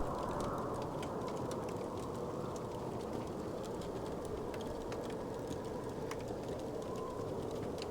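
Wood fire crackling in a fireplace, with sparse sharp pops and ticks over a steady low rumbling bed.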